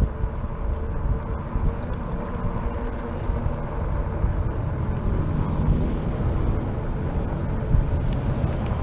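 Wind rushing over a bike-mounted action camera's microphone while riding a fat-tire e-bike, with the steady rumble of the tyres rolling on pavement.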